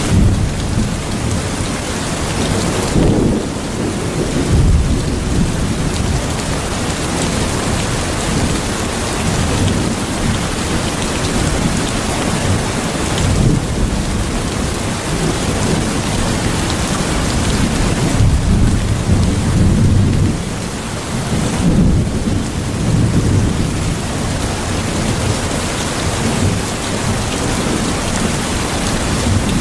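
Steady heavy rain with low, rolling thunder rumbling underneath, swelling several times.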